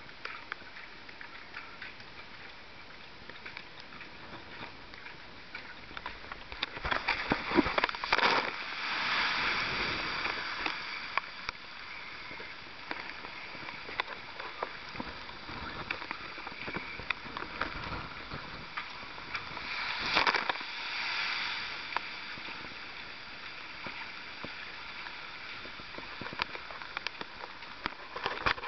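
Sea waves surging against a harbour breakwater over a steady wash of sloshing water. Two big waves hit, one about seven seconds in and one about twenty seconds in, each a loud crash followed by a few seconds of rushing water.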